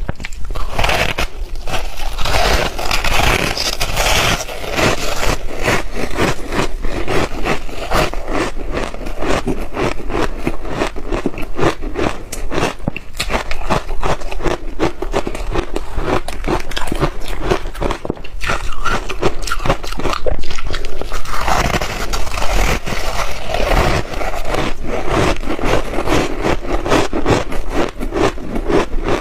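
Close-miked chewing of ice, a dense run of crunches and cracks going on without a break.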